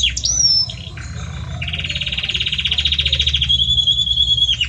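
Male Belgian canary singing: a few quick sweeping notes, then a fast trill from about a second and a half in, ending in one long steady whistled note near the end.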